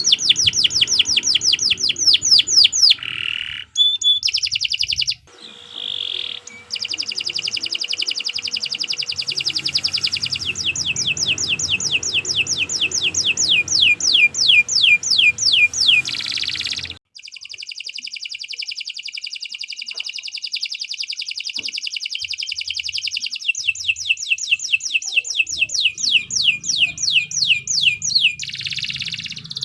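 Domestic canary singing long rolling trills: fast runs of repeated high, downward-sweeping notes, several a second, broken by brief pauses and changes of phrase.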